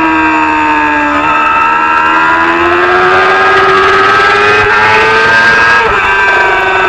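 Racing motorcycle engine at high revs: the pitch drops for about a second, climbs steadily for several seconds under acceleration, then breaks off abruptly about six seconds in, as at a gear change, and falls away again.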